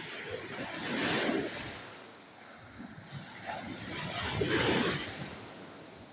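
Waves washing onto a sand beach: two surges of surf, one about a second in and a louder one about three seconds later.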